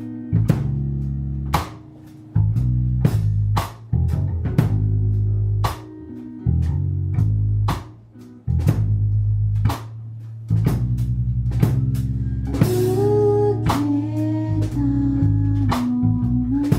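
Band music with drum kit, bass guitar and guitar, the drums keeping a steady beat under held bass notes. About two-thirds of the way in, a guitar melody line comes in over the rhythm.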